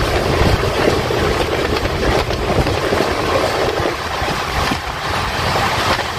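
Running noise of a moving express passenger train, a steady rumble and rattle of the wheels on the track, with air rushing past the microphone.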